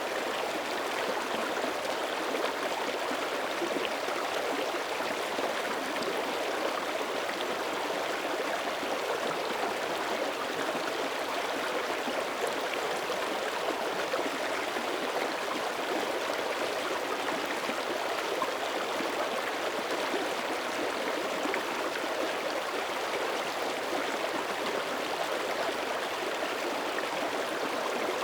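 Mountain creek running over rocks, a steady rushing and gurgling of flowing water.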